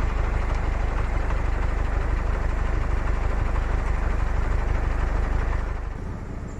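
Heavy vehicle engine running steadily with a strong low rumble. It falls away sharply about six seconds in.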